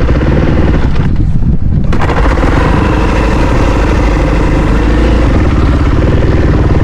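Dirt bike engine running loud under way on a trail ride, the throttle easing off for about a second near the start before picking back up.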